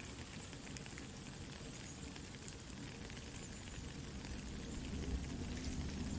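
Soft steady rain mixed with a crackling campfire, scattered small pops over an even hiss. The sound grows somewhat louder near the end.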